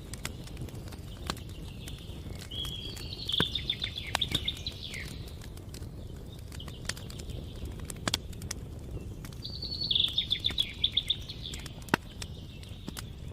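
Campfire crackling with scattered sharp pops over a low, steady burning hiss, while a bird sings a quick trilled phrase twice, about three seconds in and again about ten seconds in.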